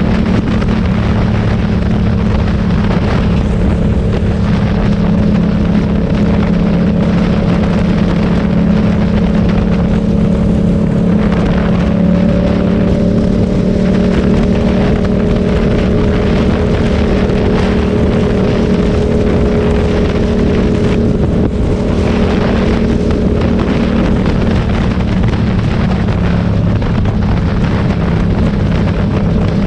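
Motorcycle engine running steadily at a constant speed, with a slight change in pitch about twelve seconds in, over a steady rush of noise.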